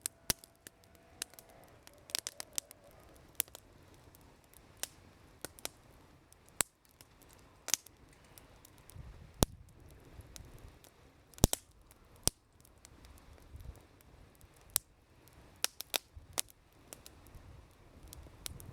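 Wood campfire crackling, with irregular sharp pops, a few of them loud.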